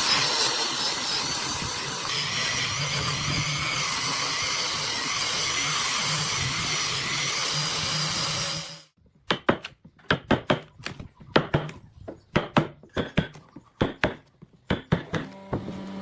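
A power tool running steadily, most likely working wood, cuts off suddenly about nine seconds in. It is followed by a quick, irregular run of sharp knocks and taps.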